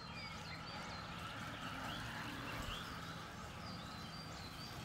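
Faint bird chirps, short quick notes scattered throughout, over low steady background noise.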